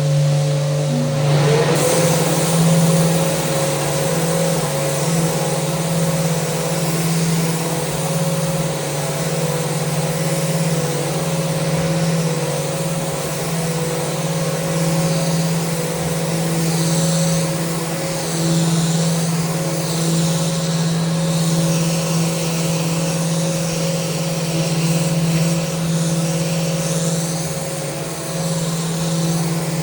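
Electric power sander running steadily with a constant motor hum; about a second and a half in the abrasive pad meets the wood of a mounted handrail and a loud sanding hiss joins, rising and falling as the sander is worked along the rail.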